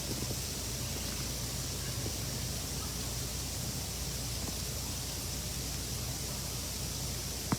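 Steady outdoor ambient noise, an even hiss over a low rumble, with a sharp click at the very end.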